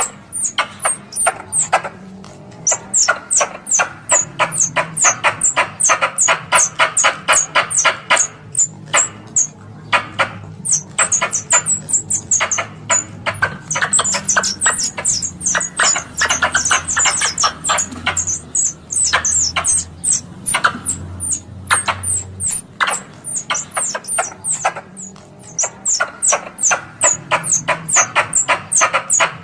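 Plantain squirrel (coconut squirrel) calling in a loud, rapid chattering series of sharp chirps, about four or five a second, with a few short breaks, played as a lure to draw wild squirrels in.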